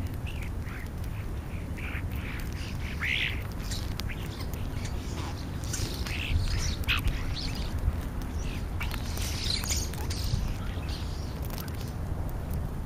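A flock of European starlings calling: a scatter of short chattering, squeaky and whistled notes, over a steady low rumble.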